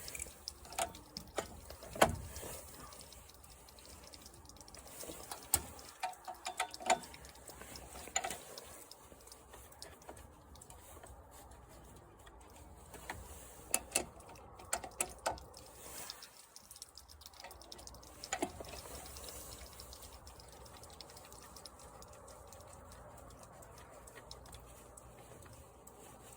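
Irregular clicks, clinks and knocks of hand tools and small metal parts being handled while working on a lawn mower engine, in clusters with short pauses; the sharpest knock comes about two seconds in.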